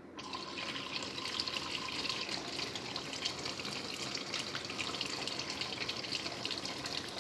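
Tap water pouring into the wash tub of a semi-automatic twin-tub washing machine, filling it for a second rinse; a steady rush of water that comes on suddenly at the start.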